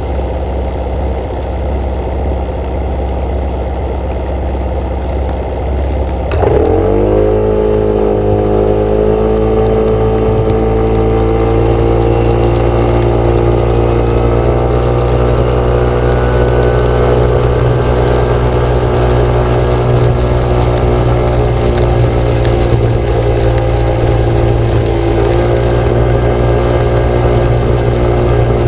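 An engine or motor running steadily. About six seconds in it suddenly speeds up and gets louder, then holds a steady, slightly rising pitch.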